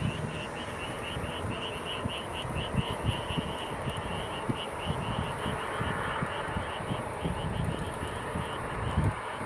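A chorus of frogs calling, a rapid train of short croaks at about four a second, over irregular low thumps and rumble.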